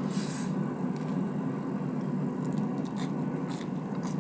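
Bite into crispy-skinned air-fried chicken, with a short crunch right at the start and a few small crackles of chewing about three seconds in, over a steady low hum.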